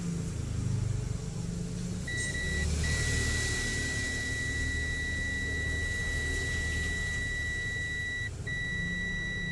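Multimeter continuity buzzer giving a steady high beep, starting about two seconds in and briefly broken twice, over a low hum. The continuous beep across the motherboard's main supply line signals a short circuit on that line.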